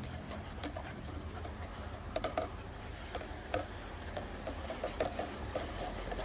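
Footsteps on a walk: irregular light clicks and taps of walking feet and dogs' claws, a few a second, over a low steady rumble.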